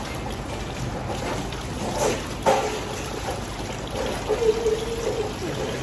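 Water running steadily, a trickling splash, for a dog's bath. A short pitched sound rises over it about four seconds in.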